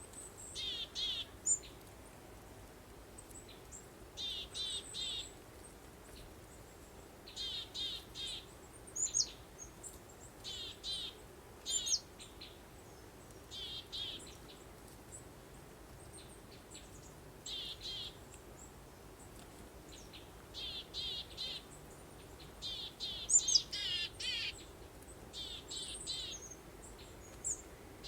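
Songbirds chirping in short repeated phrases of three or four quick high notes every one to three seconds, with a few higher single chirps between, over a faint steady background noise.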